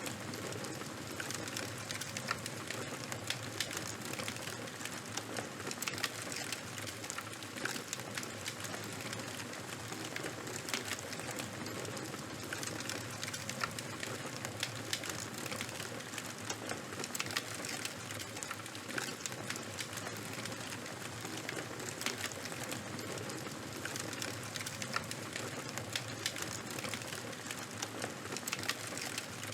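Charcoal or bonfire burning, a steady crackle peppered with frequent, irregular sharp pops.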